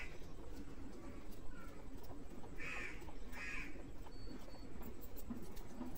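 Two short bird calls about a second apart near the middle, over a low steady background rumble, with faint rubbing and ticking as the scales are rubbed off a hilsa fish by hand.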